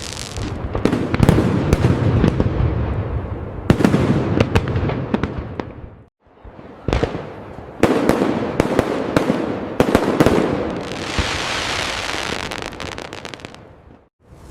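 Fireworks display: a string of aerial shells bursting with sharp bangs and booms, trailed by crackling. There is a dense spell of crackle a little past the middle, and the sound cuts out briefly about six seconds in.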